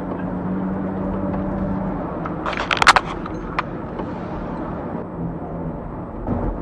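A vehicle running with a steady hum, and a quick cluster of sharp knocks about two and a half seconds in.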